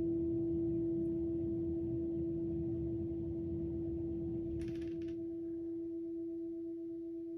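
A sound-bath singing bowl ringing one steady, pure tone that slowly fades. A brief rustle is heard about four and a half seconds in.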